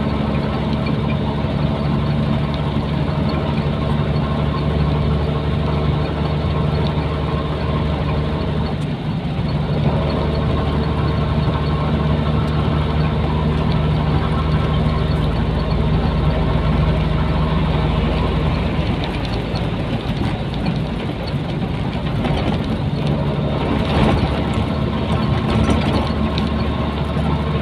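Nissan Diesel container truck's diesel engine running steadily while driving, a continuous low drone with a brief dip about nine seconds in.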